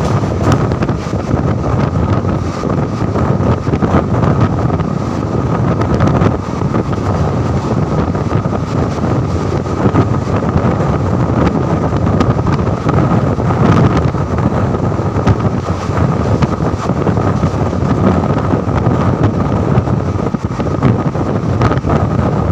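Express train running at speed, heard from on board: a steady rumble of wheels on the rails with wind buffeting the microphone and a thin steady tone running above it.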